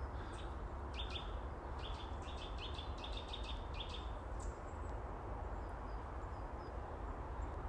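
Woodland songbird chirping: a quick run of a dozen or so short high chirps in the first half, then a few faint notes, over a steady low background rumble.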